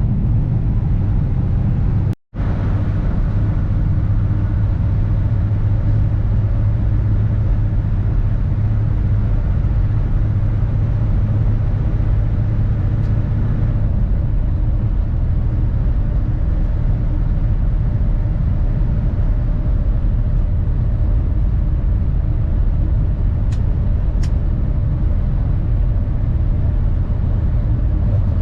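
Kenworth W900 semi truck's diesel engine and road noise while driving, a steady low drone. The sound drops out completely for a moment about two seconds in.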